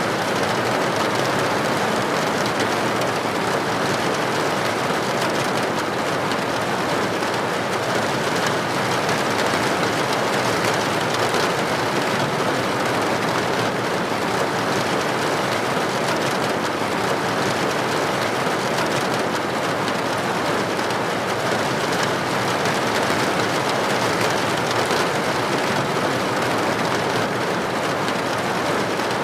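Steady rain falling, an even, unbroken hiss that stays at the same level throughout.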